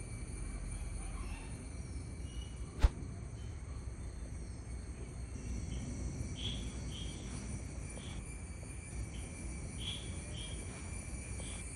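Cicadas buzzing in a steady, high-pitched drone. A sharp click comes a little under three seconds in, and a run of short chirps follows in the second half.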